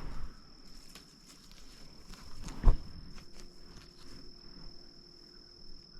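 Rustling and crackling of brush as someone moves through wild blackberry brambles, with one sharp thump a little past halfway. A steady high-pitched insect trill goes on underneath.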